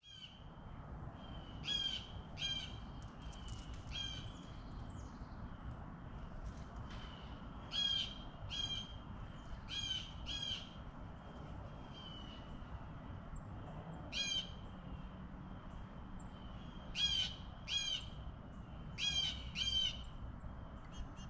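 Birds calling, short repeated calls mostly in pairs a little under a second apart, over a steady low rumble and a faint steady high tone.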